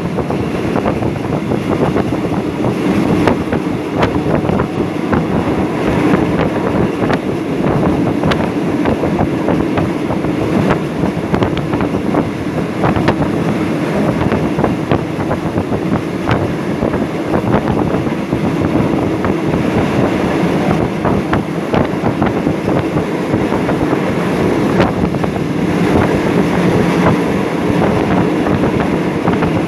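Steady running noise of a passenger train at speed, heard from inside a carriage: wheels rumbling on the rails, with scattered sharp clicks.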